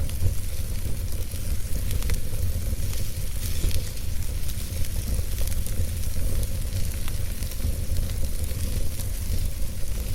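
Wood fire burning in a fireplace: a steady low rumble and hiss with scattered crackles and pops, one sharper pop about two seconds in.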